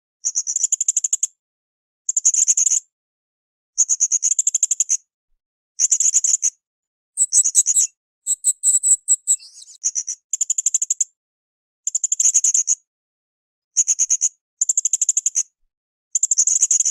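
A srindit (hanging parrot) calling in short, high-pitched bursts of rapid ticking notes, each under a second long and repeated about every two seconds, with one longer, higher, more varied phrase around the middle.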